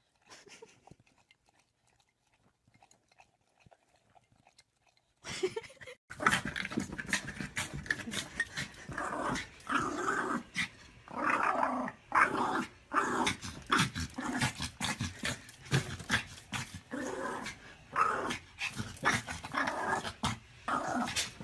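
A dog growling over and over in short, uneven spells, starting about five seconds in after a near-silent stretch.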